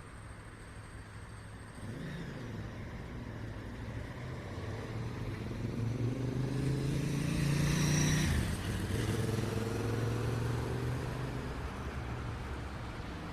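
City street traffic: a steady rumble of cars, with one vehicle passing close by, its engine note falling in pitch as it goes by, loudest about eight seconds in.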